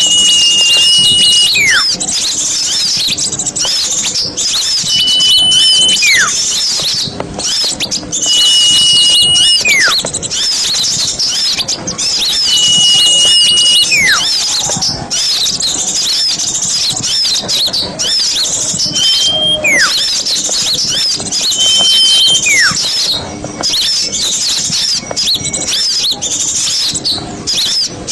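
Small-bird lure recording: many small birds twittering and chattering without a break, with a long high whistle that falls steeply in pitch at its end, repeated about every four seconds.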